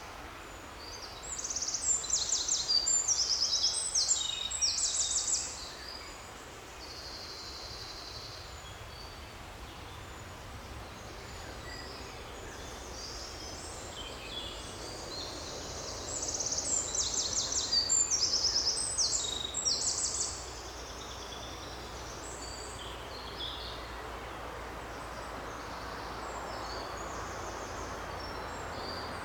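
Songbirds singing: two loud bursts of quick, high trilled phrases a few seconds long, about two seconds in and again around the middle, with fainter calls and a short steady whistle between them, over a steady forest background hiss.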